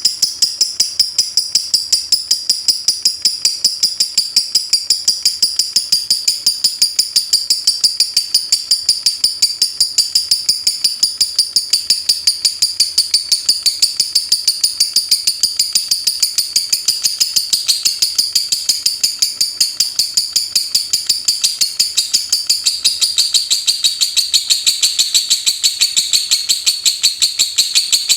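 Lovebird 'ngetik': a fast, unbroken run of identical high-pitched chirps, about four a second, the typing-like chatter of a male lovebird in full song.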